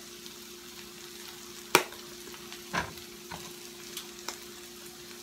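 Salmon and mackerel with onions and bell peppers sizzling softly in oil in a frying pan. A sharp knock comes about two seconds in, with a few lighter clicks after it.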